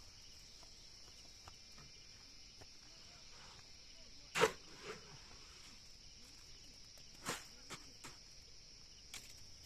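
Steady high-pitched insect chirring, with a few isolated sharp knocks; the loudest comes about halfway through and a second one about three seconds later.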